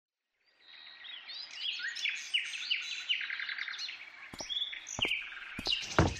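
Birds chirping fade in out of silence, many short chirps overlapping. From about four seconds in, a few sharp clinks of kitchenware break in, the loudest near the end.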